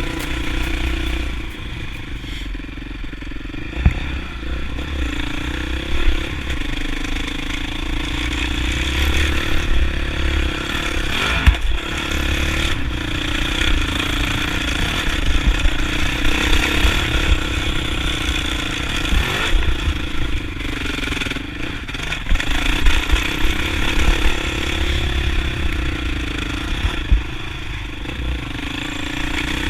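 Single-cylinder four-stroke Honda CRF450X dirt bike engine on the trail, its pitch rising and falling again and again as the throttle opens and closes. Scattered clatter and knocks come from the bike over rough ground, over a steady low rumble.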